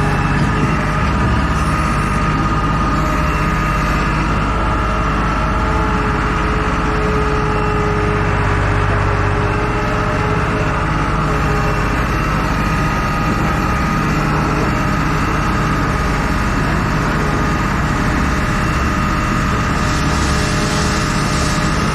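A heavy vehicle engine running steadily.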